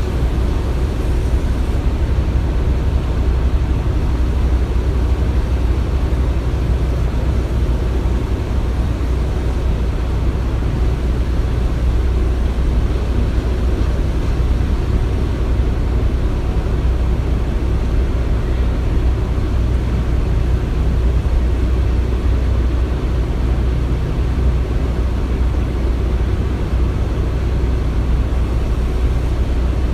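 Construction-site ambience: machinery running with a steady, deep rumble and a faint thin whine over it, unchanging throughout.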